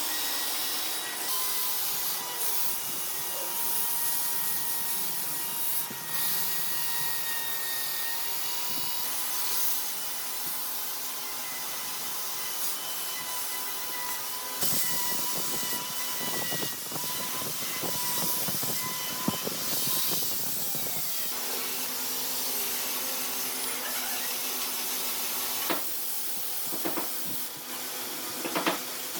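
An electric power tool abrading wood, its motor whining steadily over a loud rasping hiss. About two-thirds of the way through the whine drops away and a lower, steady hum carries on, with a few sharp knocks near the end.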